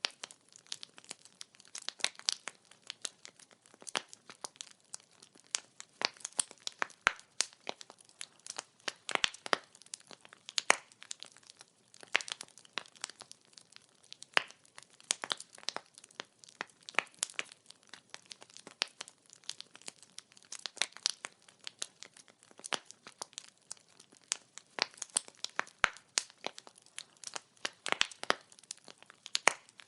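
Wood fire crackling: burning logs popping and snapping in quick, irregular clicks over a faint steady hiss.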